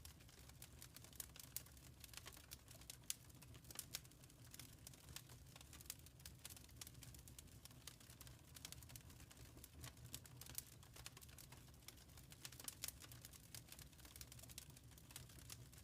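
Wood fire crackling faintly: irregular small pops and snaps, several a second, over a low steady rumble.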